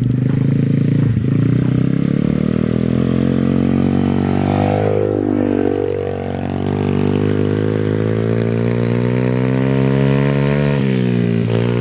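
Welsh Pit Bike 125cc single-cylinder four-stroke engine revving under way through the gears. Its pitch climbs, dips briefly in the middle and recovers, then drops sharply near the end at a gear change before climbing again.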